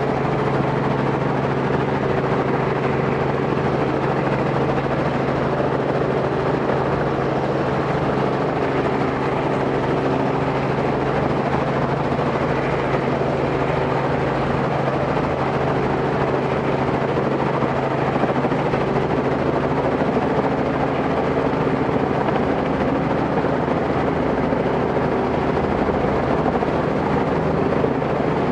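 Robinson R44 helicopter running on the ground before take-off: a steady engine and rotor noise with an even hum that does not change.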